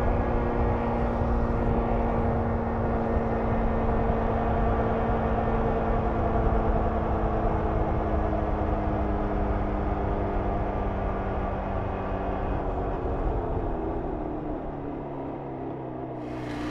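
1994 Jawa 350 two-stroke twin motorcycle engine running while the bike is ridden, its note falling slowly in pitch and getting quieter near the end as the rider eases off.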